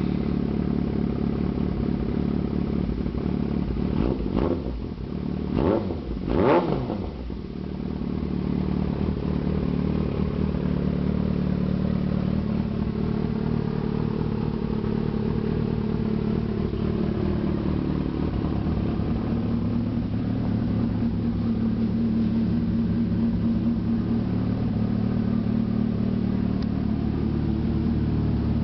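2008 Yamaha R6S inline-four sportbike idling through a Werkes Competition slip-on exhaust, just after starting. It gives three quick throttle blips about four to seven seconds in, then settles back to a steady idle.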